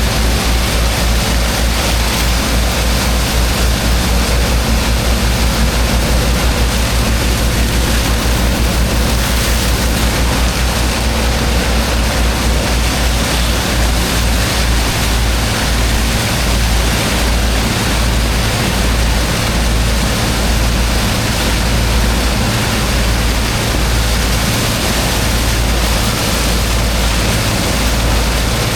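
High-pressure water jet spraying steadily into sand, over the constant low hum of the pump engine driving it.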